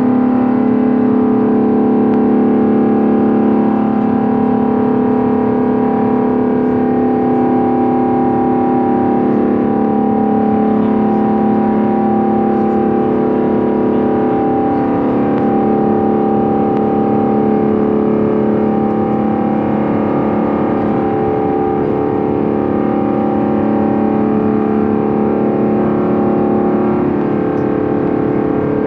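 Airbus A350-900's Rolls-Royce Trent XWB jet engines heard from inside the cabin during the climb after takeoff: a loud, steady drone with several strong, steady tones over a rushing noise. Passengers found this engine noise extremely distracting.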